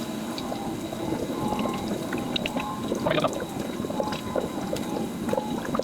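Coolant gurgling and bubbling in a spill-free filling funnel as it drains into a Mercedes Sprinter's cooling system. The irregular little pops and chirps are air bubbles escaping from the system while it is still taking coolant.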